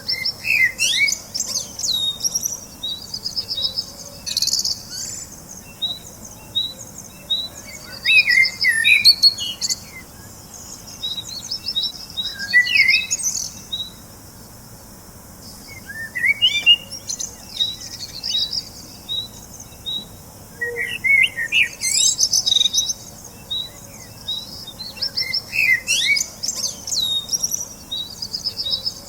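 Birdsong: a steady run of short, high, evenly repeated chirps, with louder warbling phrases breaking in every few seconds.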